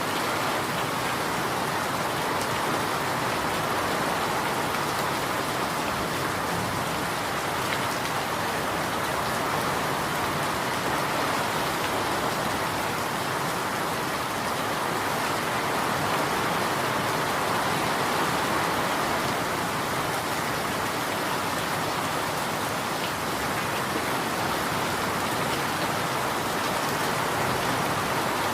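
Steady rain falling as an even, unbroken hiss of drops, with no thunder or separate drips standing out.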